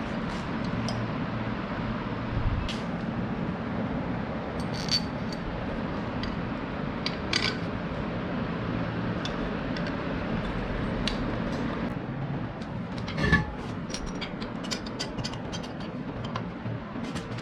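A steady low mechanical hum with scattered clicks, easing off about two-thirds of the way through. A run of light clicks and knocks follows, with one louder knock.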